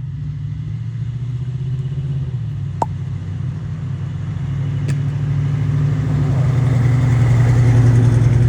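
A car's engine and exhaust running with a low, steady rumble that grows louder toward the end, as a car leaving the show draws near. A sharp click about three seconds in, and a fainter one about two seconds later.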